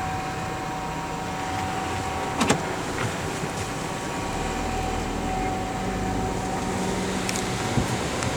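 Car moving slowly, heard from inside the cabin: a steady engine and road rumble with a faint steady whine, growing a little heavier about halfway through. Two short clicks come about two and a half seconds in and near the end.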